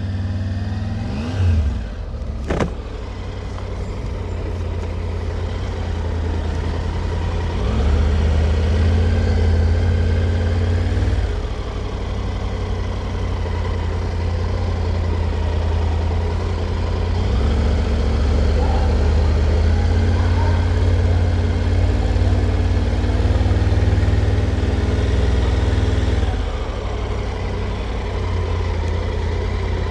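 Triumph Tiger 900 GT Pro motorcycle's three-cylinder engine running at low speed, pulling away under throttle twice with the engine note rising, then easing back. Two short sharp sounds come about a second and a half and two and a half seconds in.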